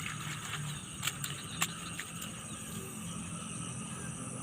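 Insects chirring steadily in a high-pitched chorus, with a few sharp clicks about a second and a second and a half in.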